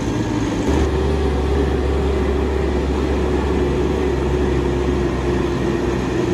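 A motor running steadily, with a constant hum and a held mid-pitched tone.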